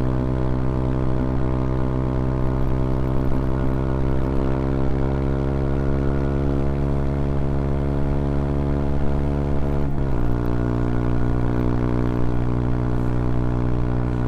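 A CFMoto Papio XO-1's small single-cylinder engine pulling under way, its pitch rising slowly as the bike gathers speed. About ten seconds in the pitch drops suddenly with an upshift, and the engine then pulls on at a steady note.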